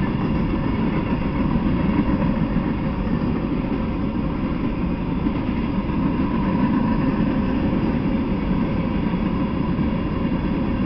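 Freight train covered hopper cars rolling past on the rails: a steady low rumble of steel wheels on track.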